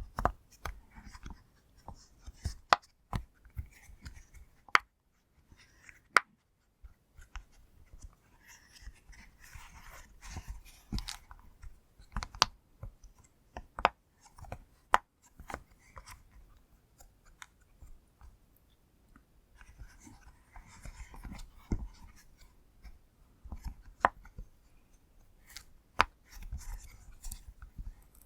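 Silicone pop-it fidget toy bubbles being pressed: irregular sharp pops, one at a time, with soft rubbing of fingers on the silicone between them.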